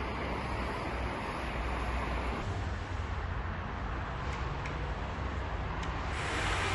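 Steady outdoor background noise: an even hiss over a constant low rumble, with a few faint ticks about four to six seconds in.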